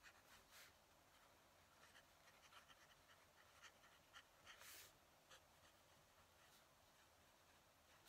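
Faint scratching of a fountain pen nib writing on paper, in short irregular strokes, with one longer stroke about halfway through.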